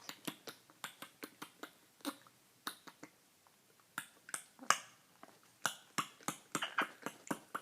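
Pet bird making a run of sharp clicks, several a second, in irregular bursts with a short pause midway.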